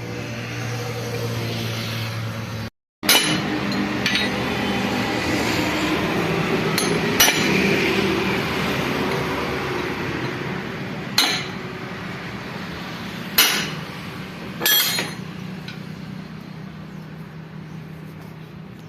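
Massey Ferguson tractor engine running with a steady hum. After a brief cut about three seconds in, a steady noise continues, with five sharp metallic clinks of tools on metal spread through it.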